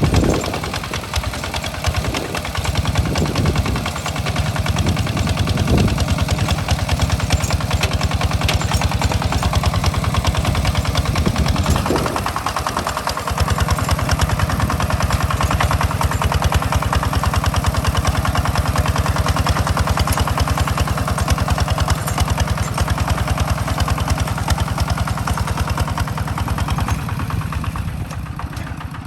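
Tractor engine running steadily with a fast, even firing beat while plowing a rice field. It changes pitch briefly in the first few seconds and again about twelve seconds in, and drops in level near the end.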